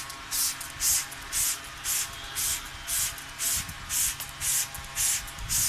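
Trigger spray head on a plastic soda bottle pumped again and again, about two short hissing sprays a second, misting water like rain.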